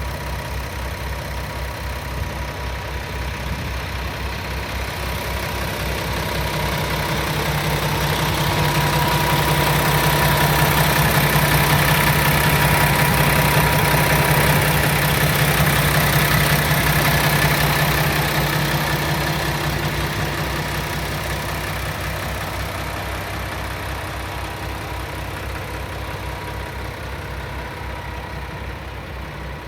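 Paccar MX-13 diesel engine of a Peterbilt 579 idling at a steady speed, with a faint steady whine above it. It grows gradually louder through the middle and fades back again, with no change in engine speed.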